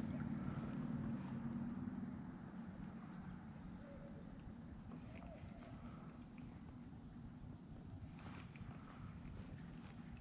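Steady, high-pitched trilling of crickets. A low rumble underneath fades out about two seconds in.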